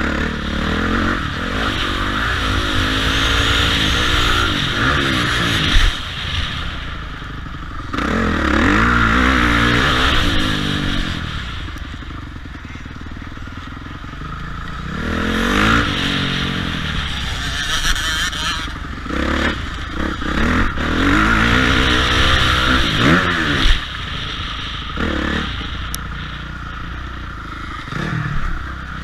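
Motocross dirt bike engine revving up and easing off in about five surges as the bike rides, the pitch climbing on each acceleration. A sharp knock about six seconds in and another near twenty-four seconds.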